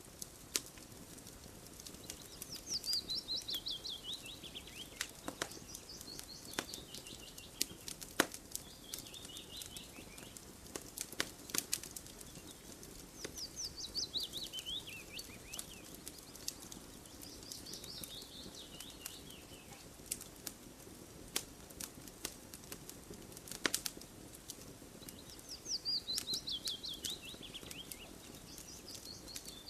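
Campfire crackling, with scattered sharp pops and snaps over a soft steady rush. A bird repeats a falling run of quick chirps three times, about every twelve seconds, each followed by a shorter, lower trill.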